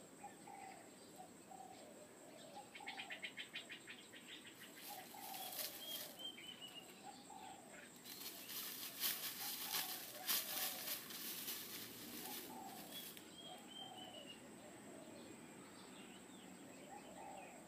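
Faint birdsong: a low call repeated every second or two, a fast trill about three seconds in, and two quick runs of high descending chirps. A spell of rustling in dry grass sits in the middle.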